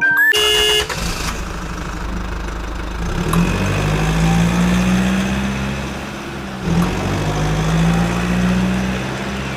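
A motor vehicle's engine running steadily, its hum rising in pitch twice as it speeds up.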